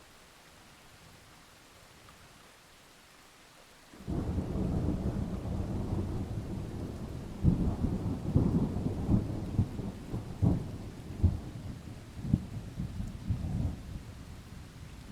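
Light rain falling, then about four seconds in a clap of thunder breaks in and rolls on as a low rumble with sharp cracks, slowly dying away near the end.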